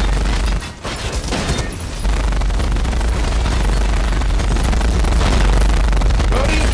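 Dense action-film battle sound: rapid gunfire-like crackle over a heavy, steady bass rumble, choppy for the first couple of seconds and then continuous.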